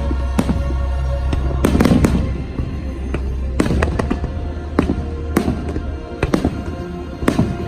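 Fireworks bursting: a string of sharp bangs and cracks at irregular intervals, some in quick clusters, over the show's music playing through loudspeakers with a heavy bass.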